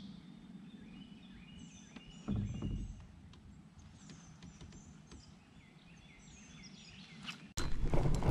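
Small birds chirping and singing, many short repeated calls. A brief low thump comes about two seconds in, and a loud rough rushing noise sets in near the end.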